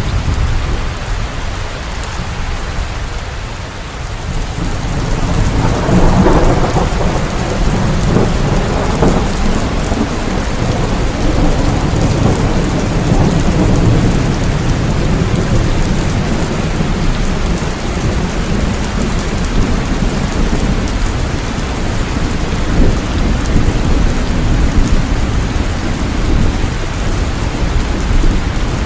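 Steady rain falling, with thunder rumbling low underneath; a rumble swells about six seconds in and dies away slowly.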